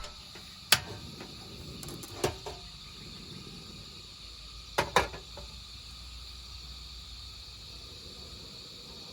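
Quiet outdoor ambience with a steady high insect drone, broken by a few sharp knocks or clacks: one about a second in, two around two seconds, and a quick pair around five seconds.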